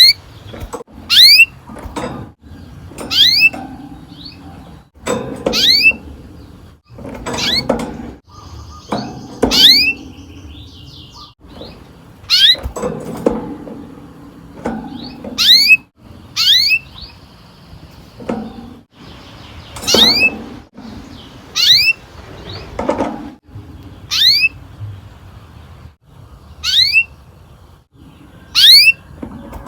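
Domestic canary giving a series of sharp, steeply falling chirp calls, one every one to two seconds, with softer low knocks and rustling between them.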